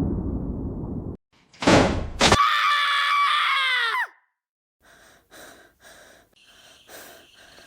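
A crash's rumble dies away, then a short whoosh and a long, high, strained cry that bends down in pitch at its end, followed by faint soft ticks.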